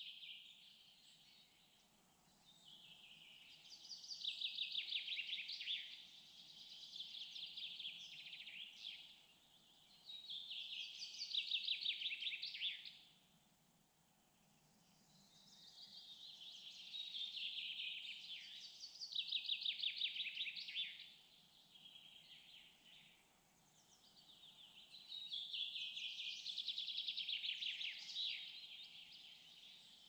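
A songbird singing loud, very fast trilling phrases of a few seconds each that step down in pitch, repeated over and over with short pauses. A faint steady low background noise runs underneath.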